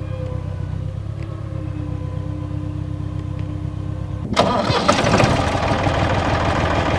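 A low steady engine hum, then about four seconds in the Ursus 3512 tractor's three-cylinder diesel starts with a sudden jump in loudness and keeps running.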